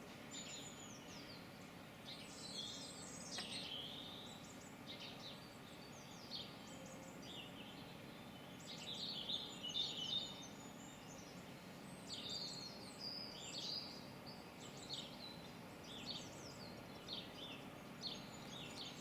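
Songbirds chirping and calling: short, high chirps and trills come every second or so, over a faint steady background hiss.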